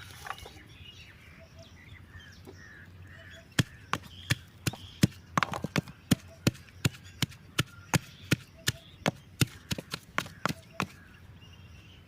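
Chopping: a blade striking a wooden board in a steady run of about three sharp strokes a second, starting about three and a half seconds in and stopping shortly before the end.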